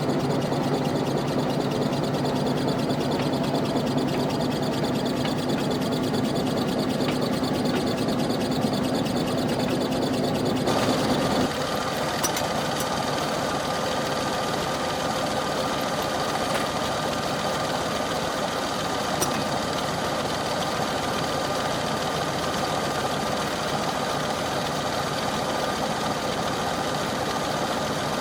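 McCormick Farmall H tractor's four-cylinder engine running steadily. About ten seconds in, its sound changes abruptly: the deep tones drop away and higher-pitched tones take over.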